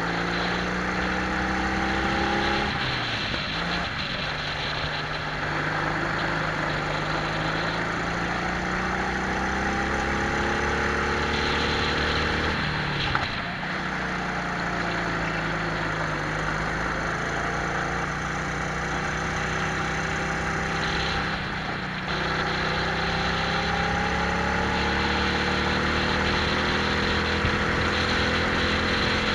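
Twin-engine Prokart running flat out on track: the engines' pitch climbs slowly through long acceleration runs and drops sharply three times as the driver lifts and brakes for corners, then rises again. A steady rush of wind noise runs underneath.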